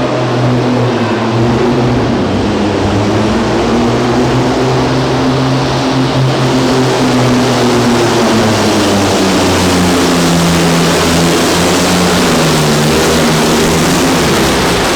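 Diesel truck engine running hard under load during a sled pull, a steady loud drone whose pitch wavers a little midway, over a strong rushing hiss.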